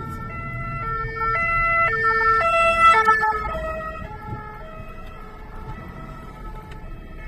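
Two-tone emergency-vehicle siren alternating between a high and a low note about every half second. It grows louder to a peak about three seconds in, then fades as the vehicle passes, over the low hum of the car being driven.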